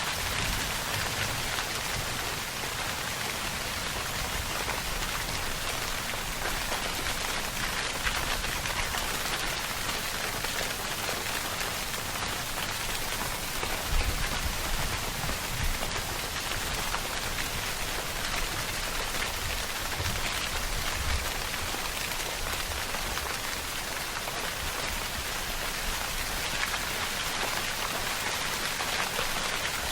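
Steady, heavy rainfall pattering on surfaces, an even dense hiss. Low rumbles come and go underneath, the strongest briefly about halfway through.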